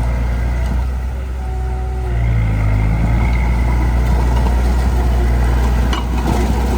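Heavy diesel engine of earthmoving machinery running steadily with a deep, loud note. The note shifts briefly about two seconds in, and there is a single metallic clank about six seconds in.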